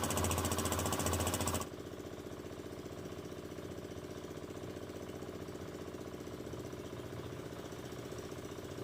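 A small engine running with a fast, even pulse, loud at first. About one and a half seconds in it drops sharply to a quieter, steady running speed.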